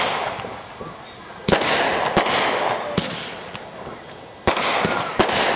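Aerial fireworks bursting: about five sharp bangs at irregular intervals, each followed by a crackling hiss that dies away over a second or so.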